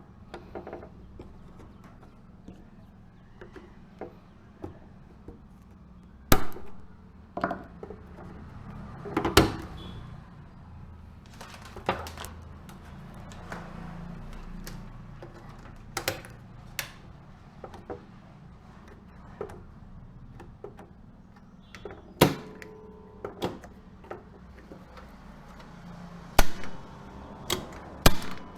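Scattered sharp clicks and knocks, a few of them louder, over a low steady hum, like hand tools and small parts being handled.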